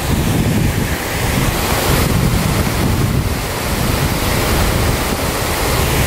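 Steady rush of river water pouring over a concrete weir, with gusts of wind buffeting the microphone.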